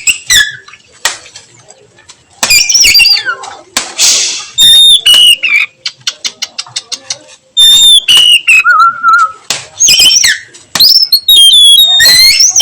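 Oriental magpie-robin (kacer) singing a varied song of loud whistled phrases with rising and falling glides. Mixed in are a harsh rasping note, a quick run of clicks and, later, a steady lower whistle held for about a second.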